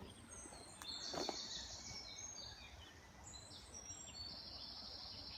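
Small songbirds singing: repeated trilled phrases and short chirps over faint background noise, with a single light click about a second in.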